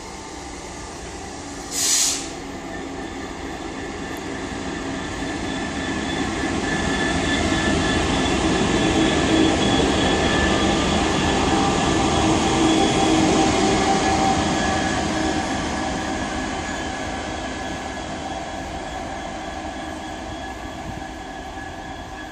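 Locomotives passing slowly: their engine note swells as they approach, holds, then fades away as they move off. A short, sharp hiss comes about two seconds in.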